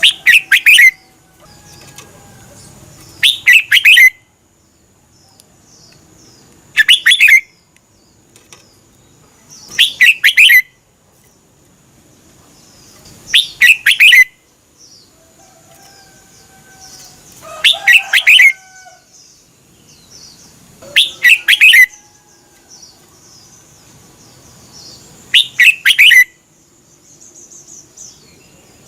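Red-whiskered bulbul singing short, loud, repeated song phrases, eight in all, each about a second long with pauses of roughly two to three seconds between them.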